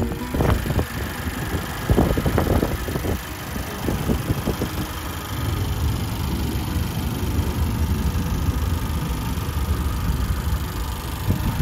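Acura TLX inline-four engine idling steadily with the hood open, with irregular low rumbles in the first few seconds.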